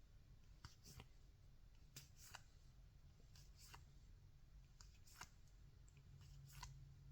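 Faint, irregular soft ticks and rustles of baseball trading cards being handled and flipped one by one, barely above room tone.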